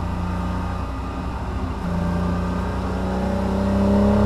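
Porsche Cayman S 987 mk2's 3.4-litre flat-six engine heard from inside the cabin, pulling under load. It holds steady at first; from a little under halfway in, the revs climb slowly and it grows louder toward the end.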